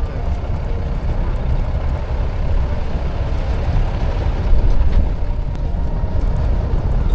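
Safari jeep driving along a jungle track: a steady low rumble of engine and road noise.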